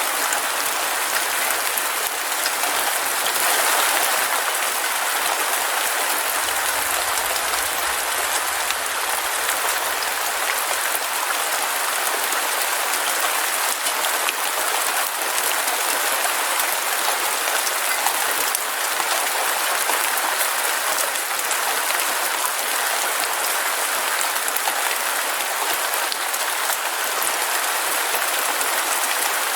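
Steady heavy rain, a dense even hiss with fine pattering of drops. A faint low rumble sits under it for a few seconds near the middle.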